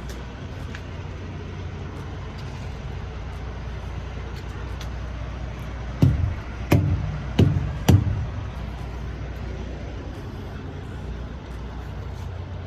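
Semi-truck diesel engine idling steadily, with four sharp knocks in quick succession a little past the middle.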